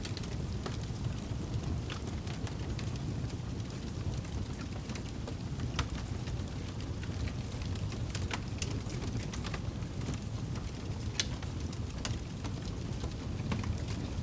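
Campfire burning: a steady low rumble of flames with scattered sharp crackles and pops from the wood at irregular intervals, a couple of them louder than the rest.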